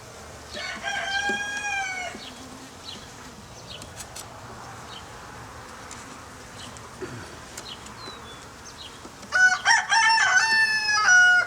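A rooster crowing twice: a shorter call about a second in, then a longer, louder crow in several parts near the end. A faint steady hum of honeybees at the open hive lies underneath.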